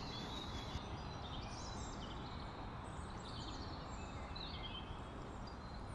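Faint small birds chirping and twittering in short scattered calls, over steady low background noise.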